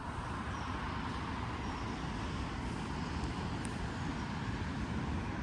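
Steady rumble of road traffic from a nearby road, with gusty wind buffeting the microphone.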